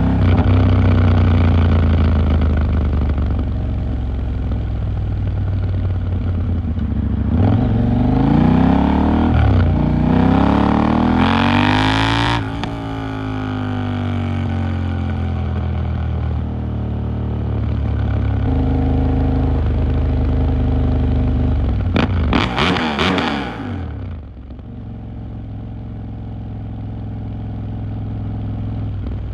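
KTM 890 Duke R parallel-twin engine pulling through the gears on the move. It rises in pitch under acceleration in the first half, then falls away as the throttle closes. A short rev comes a little past two-thirds of the way in, and it runs lower and quieter near the end.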